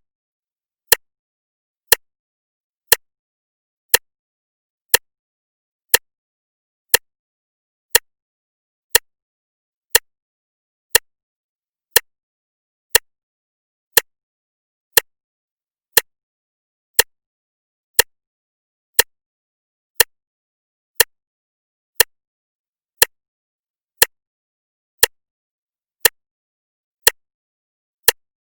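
Clock ticking steadily once a second, each tick a single sharp click with silence between.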